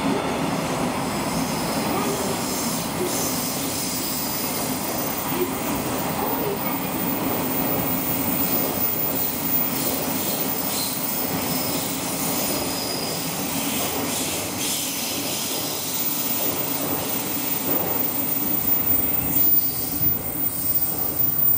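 JNR 415 series electric train pulling away from the platform and running off around a curve: steady rail rumble with faint high wheel squeal. The rail noise grows louder and more uneven near the end.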